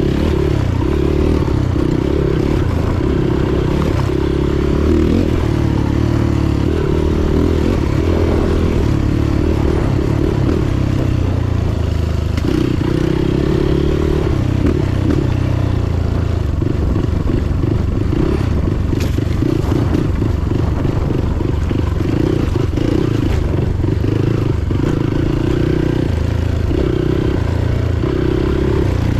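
Motorcycle engine running steadily while riding, its note shifting up and down with speed, with road and wind noise.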